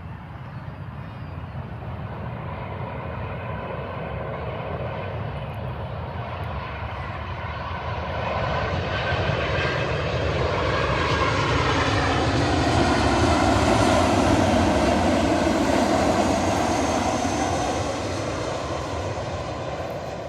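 Jet airliner's engines passing by, building steadily louder to a peak about two-thirds of the way through and then fading, the pitch falling as it goes past.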